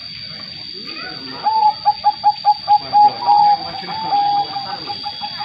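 Zebra dove (perkutut) cooing: a quick run of short, clipped notes beginning about a second and a half in, slowing into longer, softer notes toward the end.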